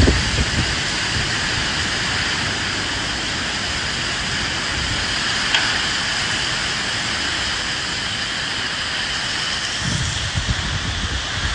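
Steady heavy rain hissing, with wind blowing; low rumbling swells come at the very start and again from near the end, and there is a single faint tick about halfway.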